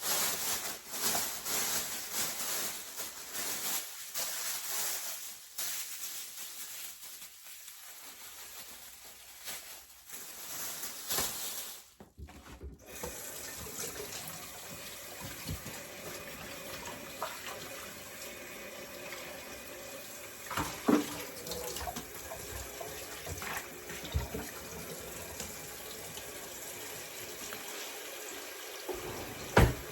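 Water running from a kitchen tap into a sink. It breaks off briefly about twelve seconds in, then runs on, with a few sharp knocks in the second half.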